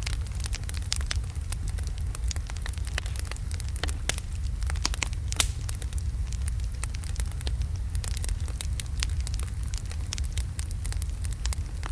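Wood fire of large logs burning in a fireplace: steady crackling with many small pops over a low rumble of the flames, and one sharper pop about five and a half seconds in.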